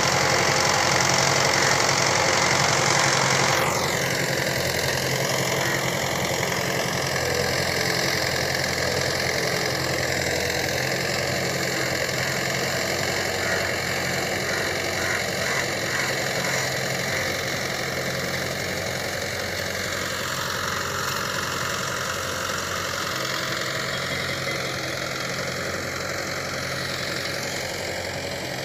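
Tractor diesel engine running steadily, with a high whine over it that drops in pitch a few seconds in and dips again later.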